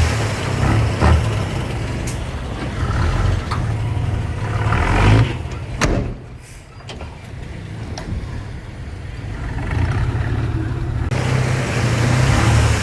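Heavy diesel earthmoving machinery engine running under load, with a few sharp knocks and a brief drop in loudness about six seconds in.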